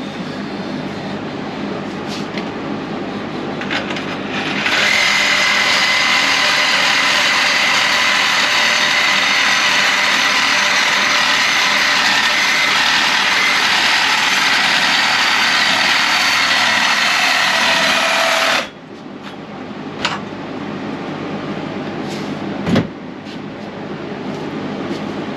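Welding arc on a steel truck frame rail, running steadily for about fourteen seconds: it starts about five seconds in and cuts off suddenly near two-thirds of the way through. Around it are a steady shop hum and a few light clicks.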